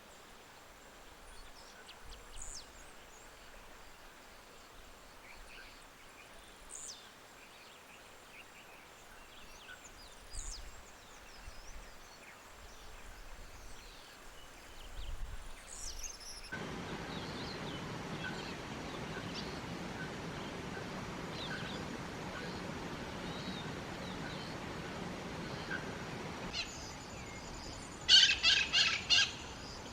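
Birds calling outdoors. At first there are sparse, high, thin chirps over faint ambience. About halfway through, the background becomes louder and busier with many small distant calls, and near the end a nearer bird gives a quick series of about six loud calls.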